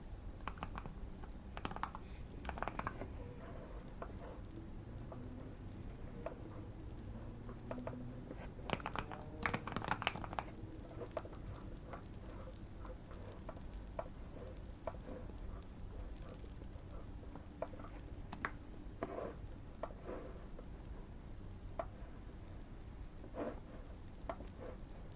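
Irregular clicks of typing on a Keychron Q1 mechanical keyboard, mixed with fireplace crackling and a low, steady background hum. A denser run of keystrokes comes near the middle.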